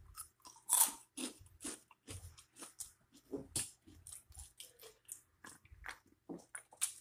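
A person biting and chewing a crunchy snack: a quick, irregular run of crisp crunches, the loudest about a second in.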